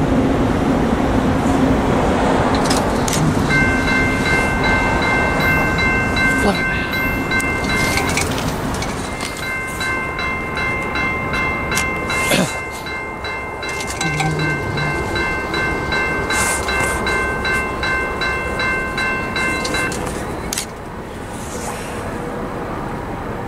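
A passing train rumbles steadily while its horn sounds a chord of several notes in two long blasts: a short one a few seconds in, then one held for about eleven seconds.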